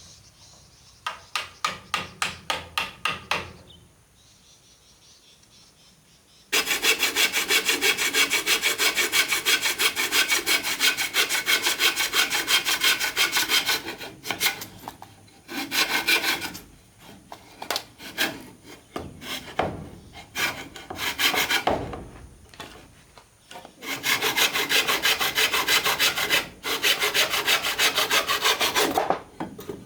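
Hand saw cutting through wood with rapid, even back-and-forth strokes. It comes in spells: a short run at the start, a long steady run after a pause, then shorter bursts.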